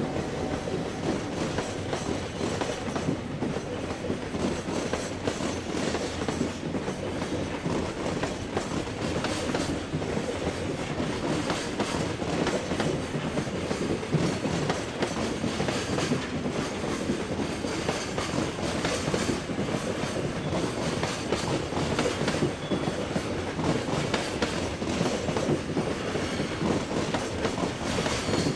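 Container freight train hauled by an EF510 electric locomotive rolling past steadily, its wagon wheels clattering over the rail joints.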